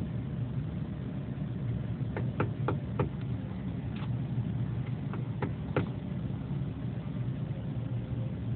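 Woodpecker tapping its bill on window glass: a handful of sharp taps in two short bursts between about two and six seconds in, over a steady low hum.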